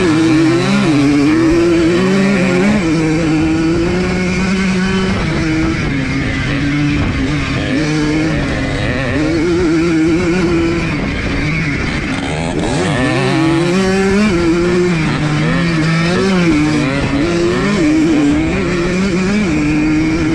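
1982 Yamaha YZ100 two-stroke single-cylinder engine ridden hard, its pitch climbing and dropping over and over as the rider works the throttle and gears.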